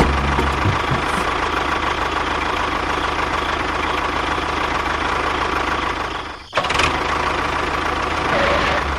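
Small electric motor running steadily with a high hum, cutting out briefly about six and a half seconds in before running on.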